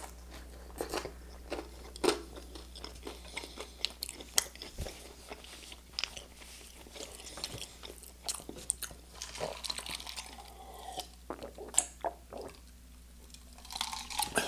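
A person chewing a bite of toast topped with canned pasta in tomato sauce: many small, sharp crunches of the toast with wet mouth sounds, easing off for a moment near the end.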